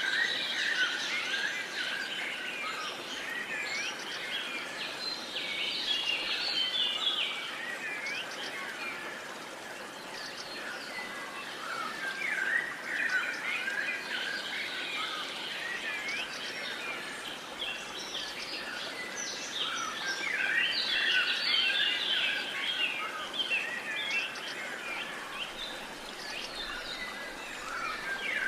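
Chorus of many songbirds chirping and trilling over a steady background hiss, swelling and easing in waves.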